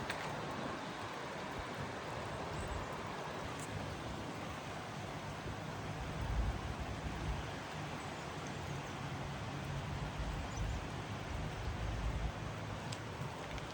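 Steady hiss of falling rain. A low rumble swells for several seconds in the middle and then fades.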